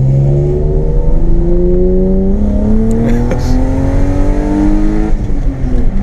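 BMW M52B28 2.8-litre straight-six with a straight-pipe exhaust pulling under acceleration, its pitch rising steadily for about five seconds. The revs then drop near the end, and the engine settles into a lower, steady note.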